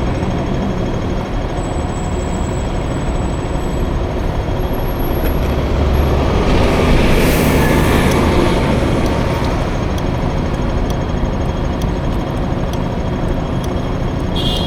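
Steady road noise from riding a small scooter through city traffic: engine and wind noise, with a larger vehicle passing louder about halfway through.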